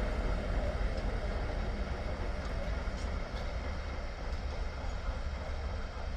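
Train running with a steady low rumble that slowly gets quieter, with a few faint clicks.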